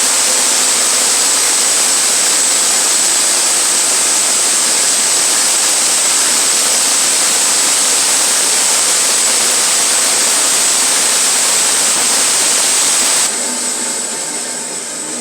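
Sawmill blade cutting through a pine log while the mill's engine runs: a loud, steady noise with a high whine. About 13 seconds in the cut ends and the sound drops suddenly to the quieter running of the engine.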